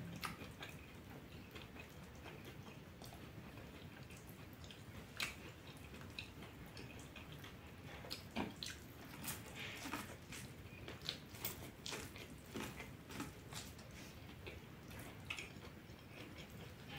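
Faint close-up eating sounds: chewing and wet mouth noises with scattered small clicks, as corn kernels picked off the cob by hand are eaten.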